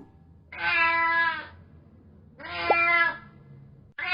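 A cat meowing twice, each meow about a second long with a fairly steady pitch.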